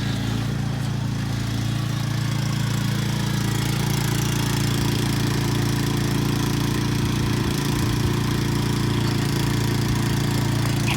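Gas-powered walk-behind lawn mower engine running steadily at an even speed.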